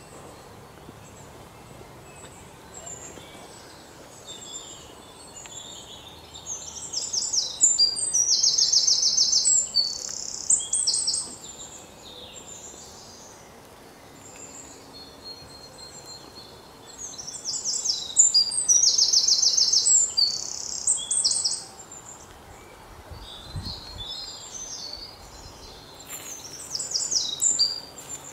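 A songbird singing in three bouts a few seconds long, each a run of fast, high, repeated notes and chirps, over a faint steady outdoor background.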